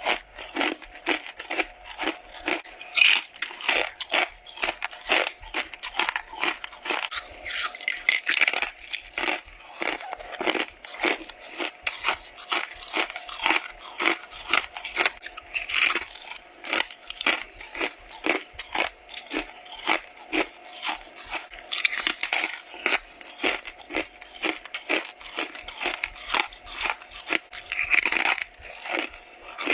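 Crisp, squeaky crunching of freezer frost being bitten, bite after bite, close to the microphone.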